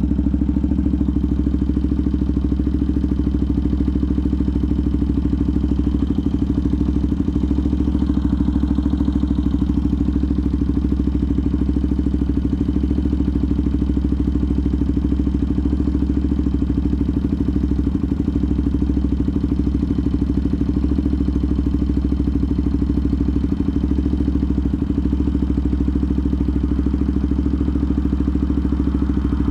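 Benelli TNT 125's single-cylinder four-stroke engine running steadily, with a fast even pulse and no revving.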